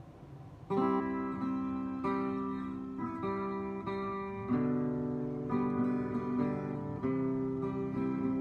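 Instrumental country music: an acoustic guitar strums chords that come in sharply just under a second in, with chord changes about halfway through and again near the end.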